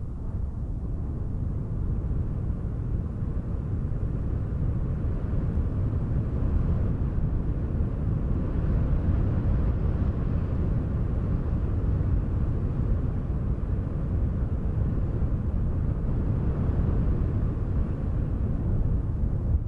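Wind blowing in slow gusts, a low, rumbling noise that swells a little through the middle.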